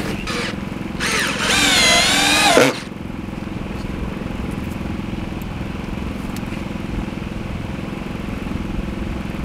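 Cordless drill driving a screw into wood: a loud motor whine that wavers in pitch under load for about two seconds, then stops suddenly. A steady low hum continues under it and after it.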